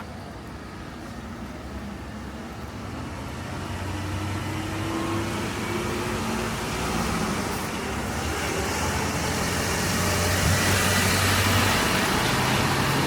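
Road traffic on a wet street: a motor vehicle's engine hum grows steadily louder as it approaches. A tyre hiss swells on the wet road in the second half.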